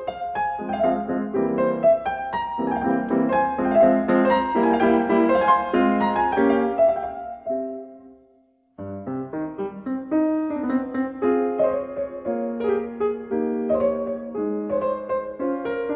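Background piano music; it fades out about halfway through, stops briefly, then a new piano piece starts.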